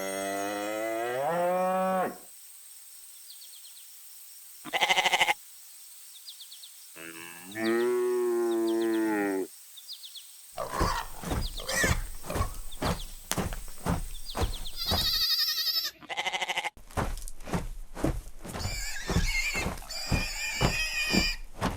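Two drawn-out farm-animal calls, the first about two seconds long and the second a few seconds later. These are followed by a long run of sharp knocks, two or three a second.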